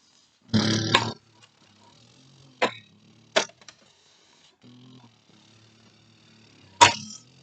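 A short noisy burst about half a second in, then three sharp clicks or knocks spread over the next several seconds.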